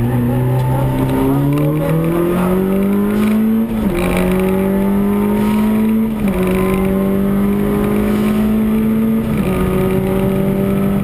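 Peugeot 106 Rallye's four-cylinder engine heard from inside the cabin under hard acceleration on a rally stage. The revs climb steadily for about four seconds, then fall sharply at a gear change. The engine then pulls on at high revs, with brief dips about six and nine seconds in.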